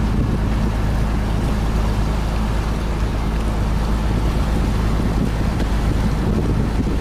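A steady engine drone with wind noise on the microphone, unchanging throughout.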